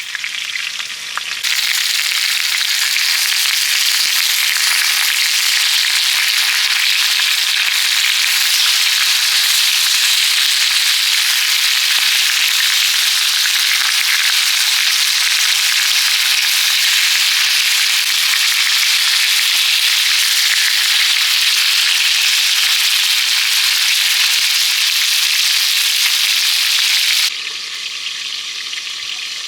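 Food frying on a hot griddle pan: a steady, dense sizzle that turns louder about a second and a half in and drops back suddenly near the end.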